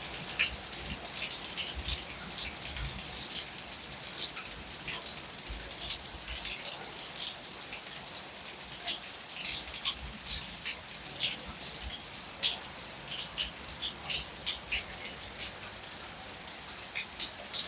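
Steady rain falling, with many separate drops ticking and splattering on a hard surface, and a low rumble of wind on the microphone underneath.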